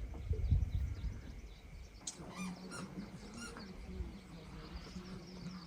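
Birds chirping in short high calls from about two seconds in, after a low rumble in the first second or so, with a low steady drone under the calls.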